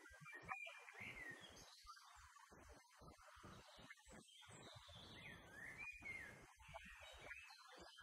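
Faint birdsong: short chirps and whistles sliding up and down in pitch, scattered all through.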